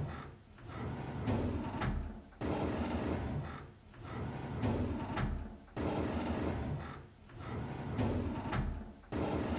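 A drawer being slid open, its runners rumbling, repeated about every three and a half seconds with a sudden start each time.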